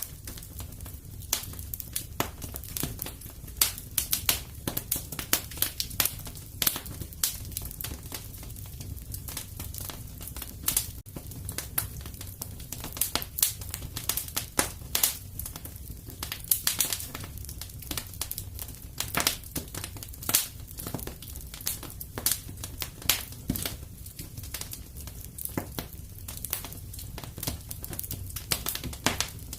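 Wood fire crackling in a fireplace: frequent, irregular sharp pops and snaps over a steady low rumble of flame.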